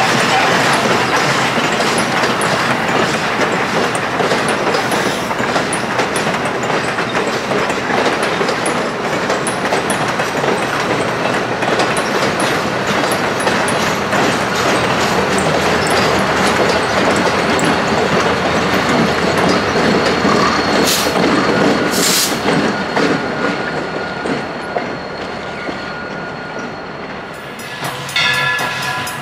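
Train rolling steadily, its wheels clicking over the rail joints. Near the end a train whistle begins to blow.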